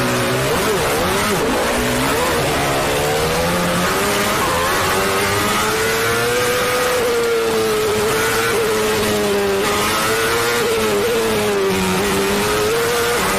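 Race car engine running hard at high revs, its pitch rising and falling gently and continuously as the car is driven at speed.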